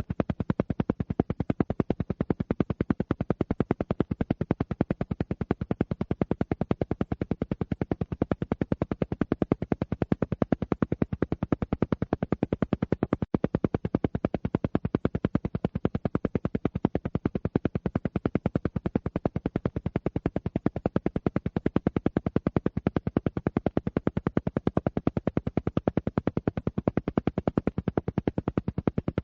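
Alpha-wave brainwave-entrainment sound: a low tone pulsing on and off in a rapid, even rhythm that never changes.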